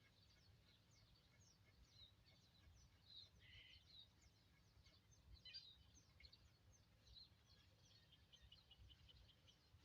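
Faint chirping of small birds: many short, high calls scattered throughout, over a low steady rumble of background noise.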